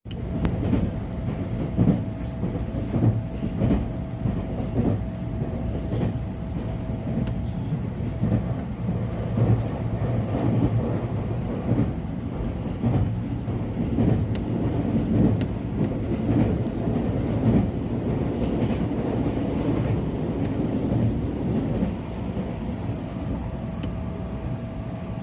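JR Shikoku 113 series electric train running on the rails: a continuous low rumble with clicks from the wheels over rail joints. A steady tone sits above the rumble for the first several seconds and again near the end.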